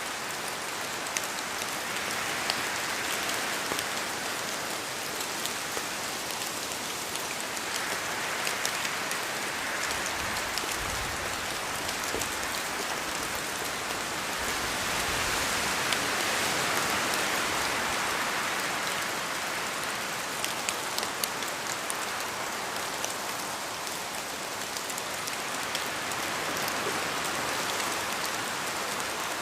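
Steady rain with wind, many separate drops pattering close by. The rain-and-wind noise swells and eases in waves every several seconds, heaviest around the middle.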